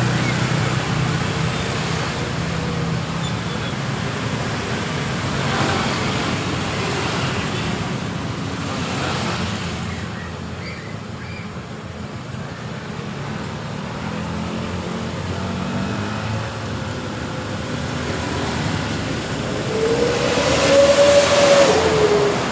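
Road traffic passing steadily, motor vehicles going by one after another with a low engine hum. Near the end a louder vehicle passes close, its engine note rising then falling.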